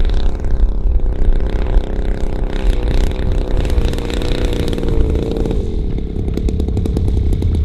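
Zenoah G-62 single-cylinder two-stroke petrol engine of a large RC P-47 model running steadily at part throttle. It is throttled down about six seconds in to a slow idle in which the individual firing beats can be heard.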